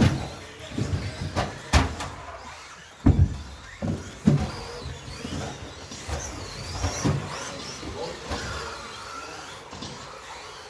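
Several electric RC stadium trucks with 13.5-turn brushless sensored motors racing: thin motor whines rise and fall as they accelerate and brake, with a handful of sharp knocks and clatters, the loudest about three and four seconds in.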